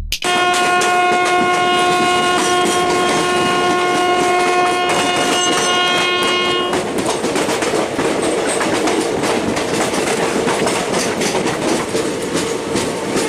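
Indian Railways train horn sounding one long steady blast for about six and a half seconds, then the moving train's wheels clattering over rail joints with a steady running rumble.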